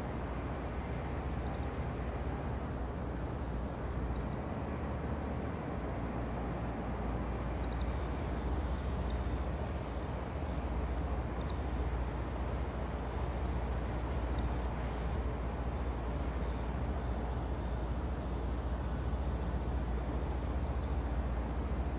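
A train rolling past: a steady, deep rumble with no horn or sharp knocks, slightly louder toward the end.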